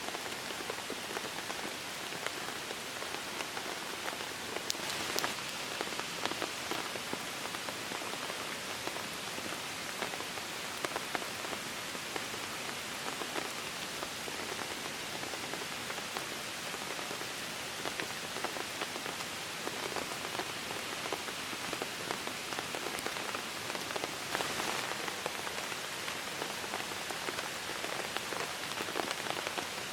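Steady rain falling, a dense hiss of many individual drops hitting close by, heavier for a moment about five seconds in and again near the end.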